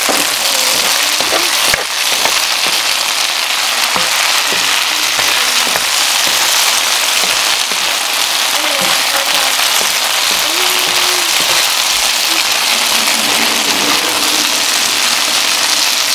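Chicken, bell peppers and onion sizzling steadily in hot oil in a cast-iron pan during a stir-fry, with a few faint knocks of the utensil against the pan.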